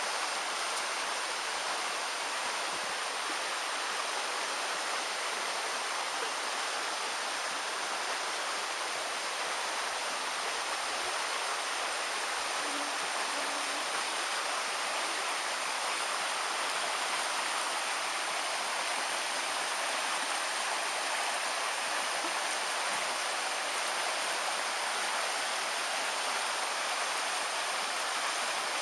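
Steady rush of running water: an even hiss that does not change, with no separate drops or splashes standing out.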